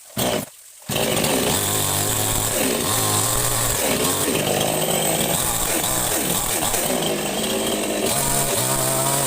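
Chainsaw catching briefly, then starting about a second in and running loud, its engine speed rising and falling.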